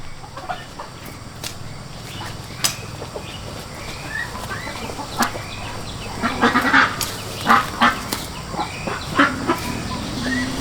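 Birds calling: many short chirps and calls, busiest and loudest about six to seven seconds in, with a few sharp clicks among them.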